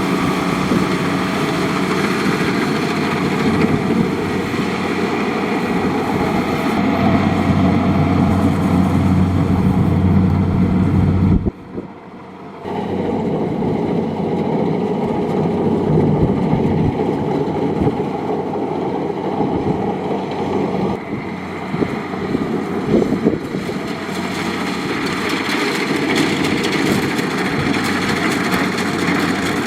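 Kubota DC70 Plus combine harvester running steadily, its diesel engine droning. The sound drops away suddenly about eleven seconds in and comes back a second later at the same level.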